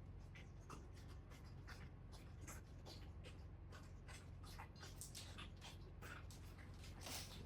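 Faint, irregular small clicks and scratches of hands working a hose clamp onto a water-line pipe, over a low steady hum.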